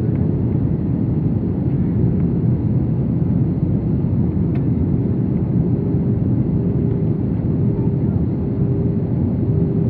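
Steady low rumble of engine and airflow noise inside the cabin of an Airbus A320 airliner, with a faint steady tone running through it.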